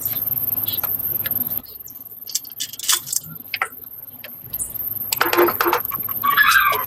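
Small metal parts and hand tools clinking and tapping against each other in a workshop, with scattered sharp clicks and a short scrape near the end.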